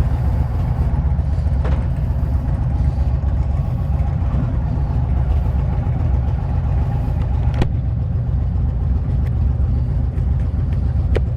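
A motorcycle's V-twin engine running steadily with a heavy low rumble, from the 2021 Indian Roadmaster Dark Horse, with a few faint clicks.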